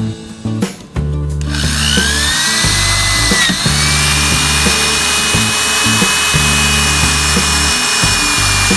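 A handheld power tool starts about a second and a half in with a rising whine, then runs steadily under load, over background music with a bass line.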